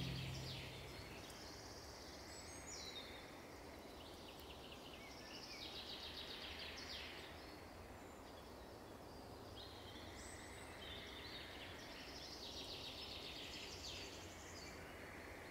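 Faint birdsong: small songbirds sing short phrases of rapid high notes, one after another every few seconds. Underneath is a quiet outdoor background with a low steady rumble.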